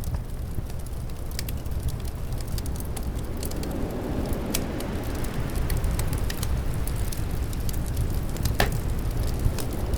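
Wood fire crackling, with scattered pops and one louder pop near the end, over a steady low rumble of winter wind.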